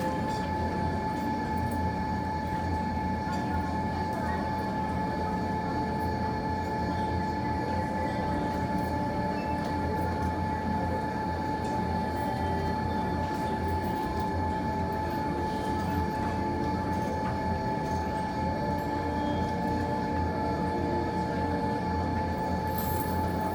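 Steady mechanical hum: a constant low rumble under a steady high-pitched whine, with a few faint ticks.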